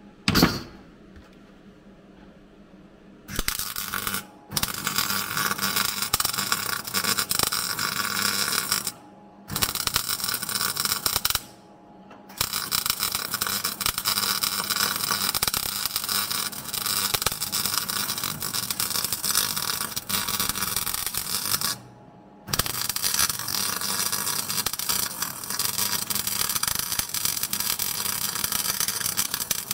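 MIG welder arc crackling in long runs of several seconds each, with short pauses between runs and a sharp click just before the first run.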